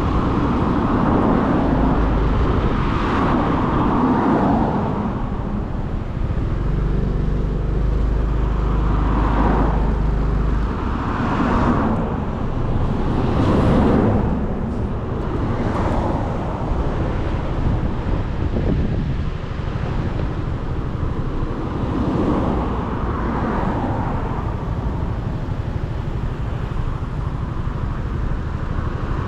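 Road traffic heard from a moving motorcycle: engine and road noise with other vehicles swelling past every few seconds, and a steady low hum for a few seconds near the middle.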